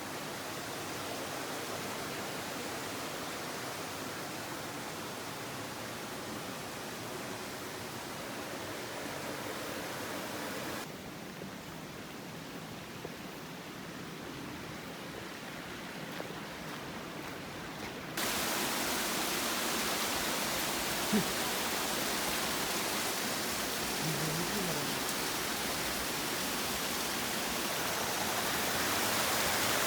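Rushing water of a waterfall, a steady even hiss. It changes abruptly about 11 seconds in, getting quieter and duller, and again about 18 seconds in, getting louder and brighter, as the recording cuts between takes.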